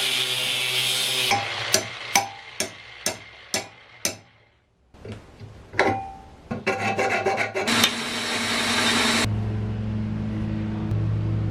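Metalworking shop sounds: a stretch of abrasive grinding, then a run of about seven ringing hammer blows on metal, about two a second. After a brief pause come more knocks and scraping, then a steady low hum near the end.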